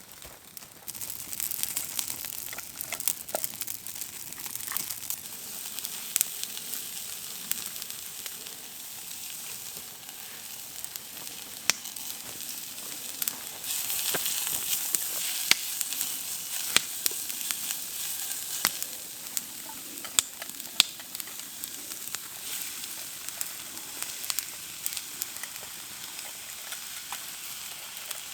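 Food sizzling as it fries over a campfire: a steady hiss that starts about a second in and grows louder for a couple of seconds midway, with frequent sharp pops and crackles.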